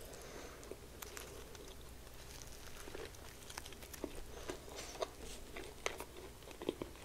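Faint close-miked chewing of a fried chicken sandwich on a soft bun: scattered small wet clicks and mouth sounds, with a bite into the sandwich near the middle.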